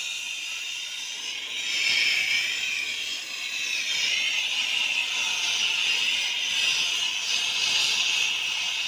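A loud steady hissing noise that grows louder about a second and a half in, then holds.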